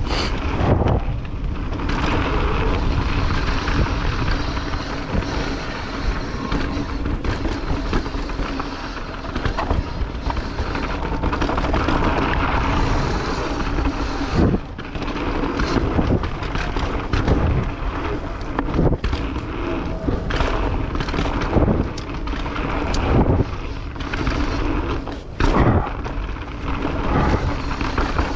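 Mountain bike riding fast down a rough trail: steady tyre and wind noise on the camera microphone, with frequent knocks and thuds as the bike rattles over bumps.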